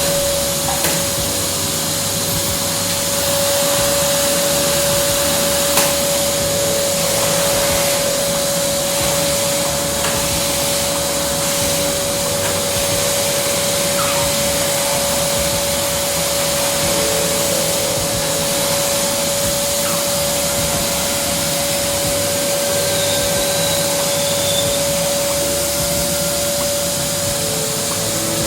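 AmazonBasics 1400 W wet-and-dry canister vacuum cleaner running steadily: an even rush of air with one constant motor whine through it. A light click about six seconds in.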